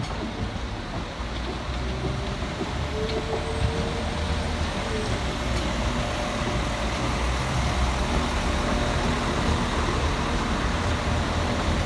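Diesel multiple unit engines running at a station platform: a steady low rumble that grows slowly louder, with a brief thin whine about three to five seconds in.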